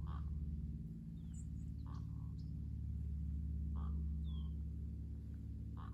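Birds chirping now and then, with short high calls and one falling whistle, over a steady low hum. A soft swish recurs about every two seconds.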